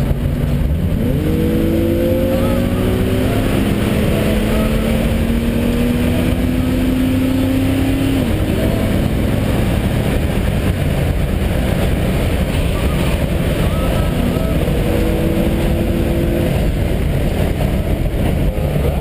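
Jaguar's engine heard from inside the cabin under hard acceleration on a race track, its pitch climbing from about a second in until it drops off around eight seconds in, then rising again later, over loud road and wind noise.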